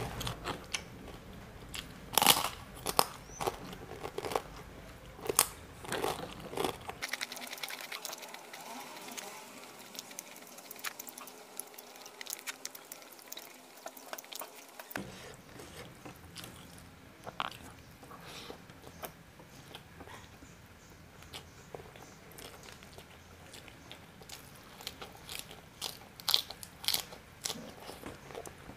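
Close-up eating sounds of a person chewing, with sharp crunches. The crunches are loudest a few seconds in and again near the end.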